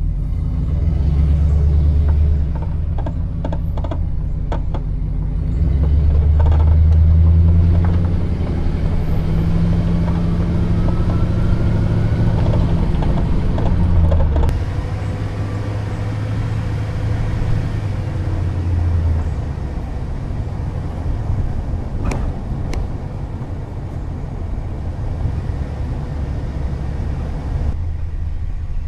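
Camper van driving: a loud, steady low rumble of engine and road noise that swells and eases a few times.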